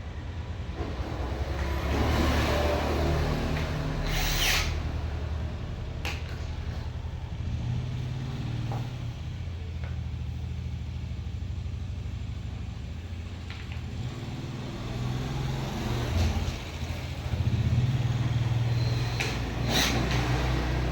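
Low engine-like motor rumble that shifts slightly in pitch, with a few brief rustles and knocks, the loudest near the start and near the end.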